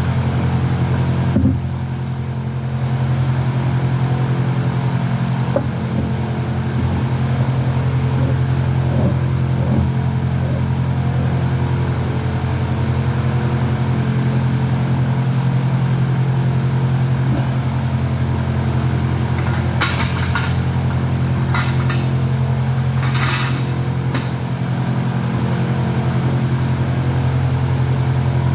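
A steady, loud, low machine hum runs throughout. Near the end there are a few short knocks or clanks.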